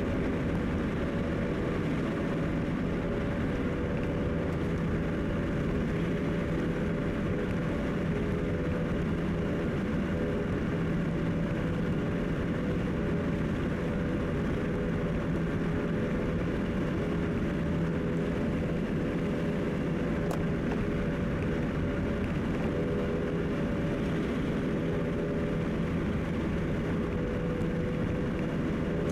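Steady road and engine noise of a car cruising on a highway, heard inside the cabin, with a constant low hum and a faint tick about two-thirds of the way through.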